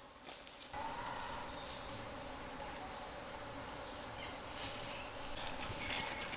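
Insects chirring steadily over a steady hiss, cutting in abruptly about a second in.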